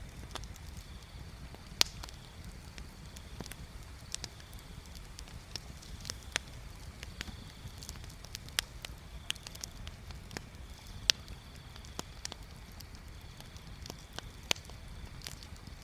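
Wood bonfire crackling: irregular sharp pops and snaps, several of them much louder, over a low steady rumble.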